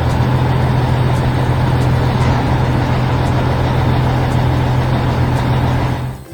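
Heavy vehicle engine running steadily, a loud low rumble with a constant hum, cutting off abruptly near the end.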